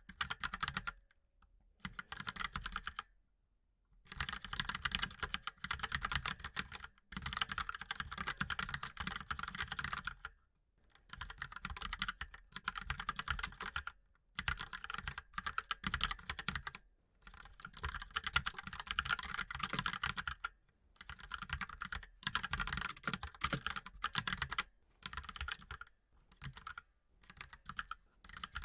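Fast typing on a mechanical keyboard: runs of rapid keystroke clicks broken by short pauses every few seconds.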